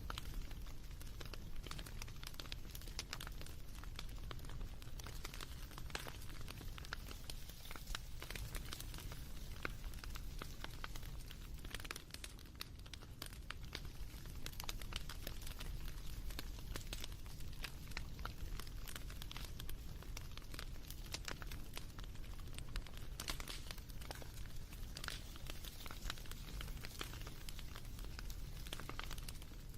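Wood fire crackling: a dense, irregular scatter of small pops and snaps over a low steady rumble.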